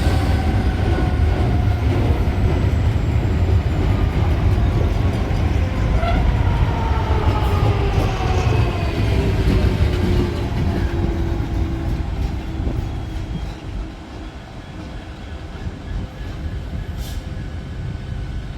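Diesel train running past close by with a heavy low engine rumble. Its tones fall in pitch and it fades away in the second half.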